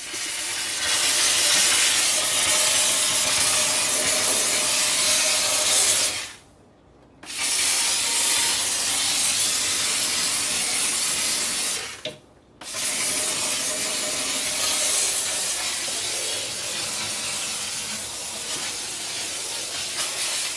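Handheld pressurized steam cleaner blowing a jet of steam with a steady loud hiss. The hiss cuts out twice, for about a second roughly six seconds in and for half a second near twelve seconds in.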